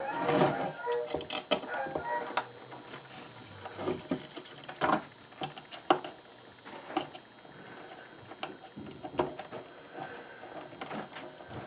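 Irregular clicks and knocks of the parts of an old wooden hand-crank coffee grinder being handled and fitted back together. A cluster comes about the first second, with scattered single knocks after.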